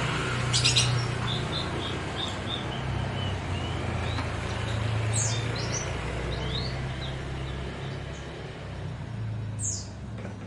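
Small birds chirping in short high notes, with a run of quick notes early on and a few fast downward-sweeping calls later, over a steady low hum. A brief rattle of clicks about half a second in.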